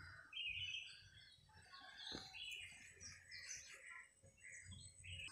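Faint birdsong: several short chirps and calls, scattered and loudest in the first second.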